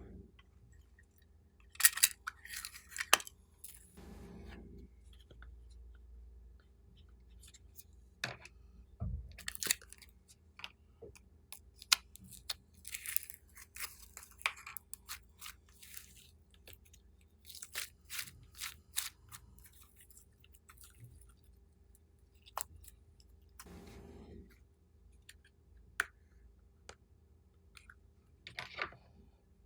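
Slime being squeezed and kneaded by hand: irregular sticky clicks, crackles and small pops, coming in clusters.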